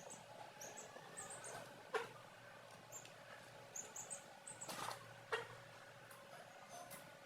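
Young chicks peeping: faint, short, high-pitched cheeps scattered irregularly, with a few soft knocks among them.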